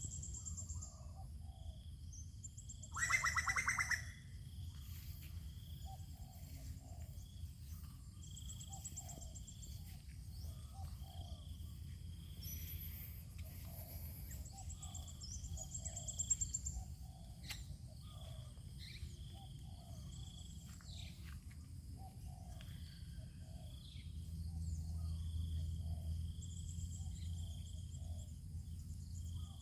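Birds calling and chirping, with short high notes repeating every second or two and a louder call about three seconds in, over a steady low rumble.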